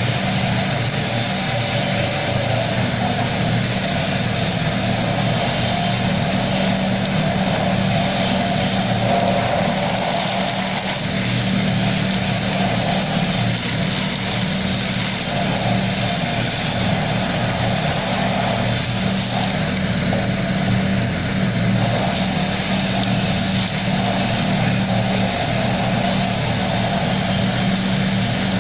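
Air compressor motor running steadily with the hiss of sandblasting air.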